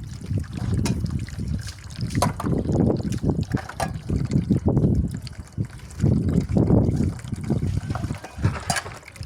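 Water splashing and trickling as dishes are washed by hand, coming in repeated swells, with a few sharp clicks.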